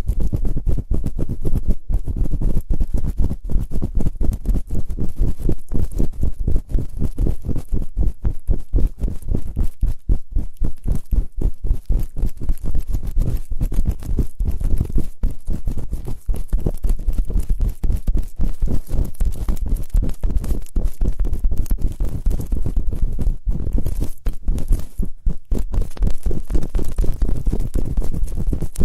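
Close-miked ASMR ear-cleaning sounds: a dense, rapid run of irregular scratching and rubbing strokes right on the microphone, heavy in the low end.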